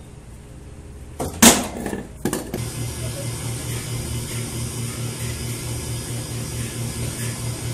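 A few loud clacks, then a motor-driven machine starts and keeps running with a steady, rapidly pulsing low hum and a hiss.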